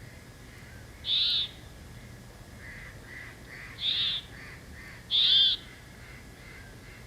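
Forest birds calling: three loud, high calls of about half a second each, with a run of softer, lower notes between the second and third.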